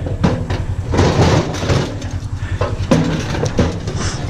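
Metal parts of a stainless-steel coffee maker clattering and scraping as they are handled, in several short bursts over a steady low hum.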